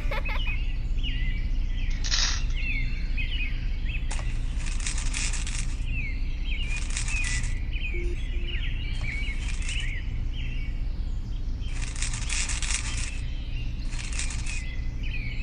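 Small birds chirping repeatedly over a steady low hum, with short bursts of hiss every couple of seconds.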